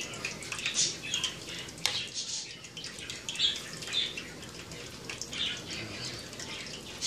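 Battered chicken pieces deep-frying in a pot of hot oil, sizzling with irregular high crackles and pops, and a sharp click about two seconds in.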